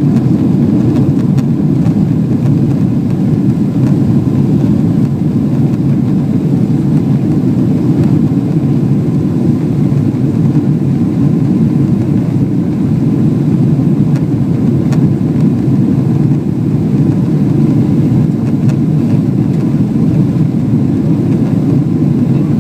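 Steady, unchanging jet engine and rushing air noise of a Boeing 777 in its takeoff climb, a deep even roar with no rise or fall.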